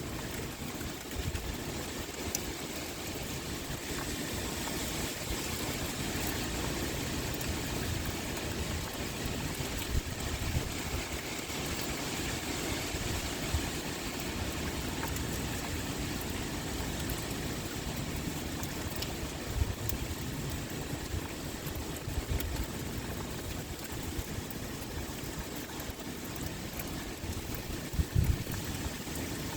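Heavy rain pouring steadily, with wind, and a few brief low rumbles about a third of the way in, two-thirds of the way in and near the end.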